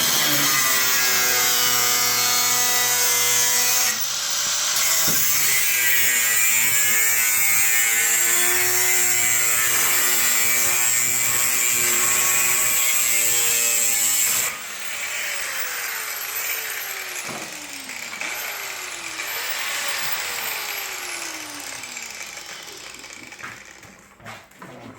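A power cutting tool cutting a sheet-metal patch piece: a steady motor whine whose pitch sags and recovers under load, briefly let off about four seconds in. Around fifteen seconds in it is released and spins down in several falling whines, each restart winding down again, and fades near the end.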